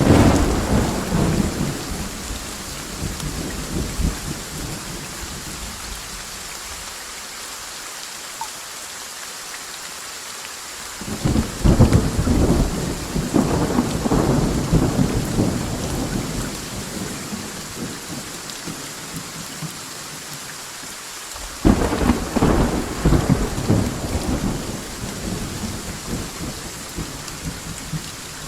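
Steady rain with three claps of thunder: one right at the start, one about eleven seconds in and one about twenty-two seconds in. Each starts suddenly and rumbles away over several seconds.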